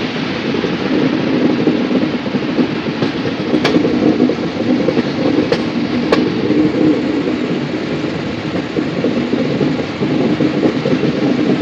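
Passenger train running along the track, heard from an open coach doorway: a steady rumble and rattle of wheels and coaches, with three sharp clicks a few seconds in.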